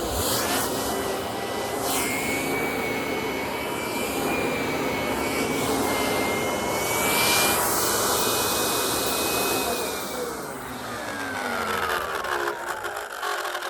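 Kirby vacuum cleaner running with a steady high whine while its zip brush attachment works over a fabric couch. About ten seconds in the motor winds down, its whine falling steadily in pitch.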